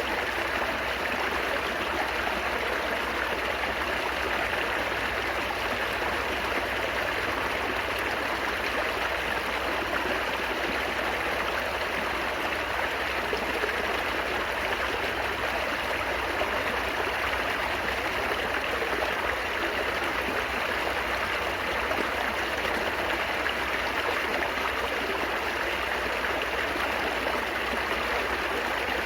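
Water babbling steadily over rocks, as in a small stream, with an even rushing and gurgling that does not change.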